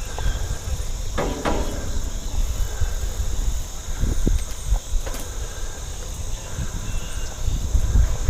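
A steady, high buzzing insect chorus along a trail, with low wind rumble on the microphone from the moving bike. A short pitched sound stands out about a second in.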